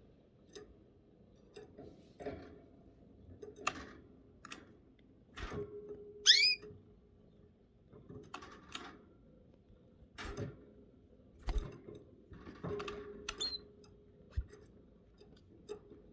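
Canaries in a cage: scattered light clicks and taps of birds moving about, with one short sweeping canary chirp about six seconds in and a brief, fainter chirp near the end.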